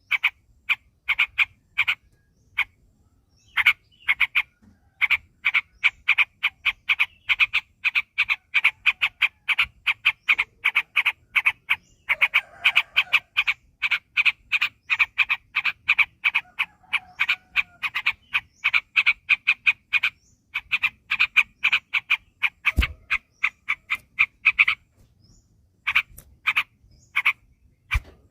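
Yellow-vented bulbul (trucukan) calling in a long rapid series of short, sharp notes, about four a second, with brief breaks near the start and near the end. A single low thump comes about 23 seconds in.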